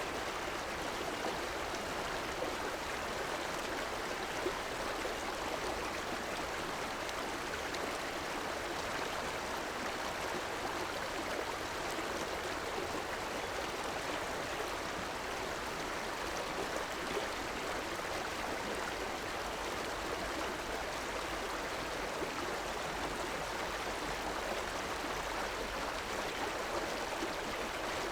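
River water running over rocks, a steady rushing and gurgling flow.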